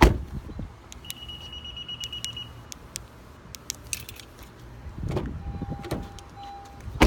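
2016 Honda Civic door shutting with a thump, then a single high-pitched warning beep lasting over a second from the car as it refuses to lock, followed by a few clicks, a lower two-part tone and another door thump at the end.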